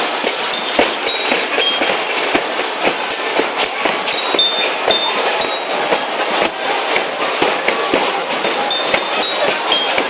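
Firecrackers crackling in the street: many sharp cracks in quick, irregular succession over the steady din of a crowd.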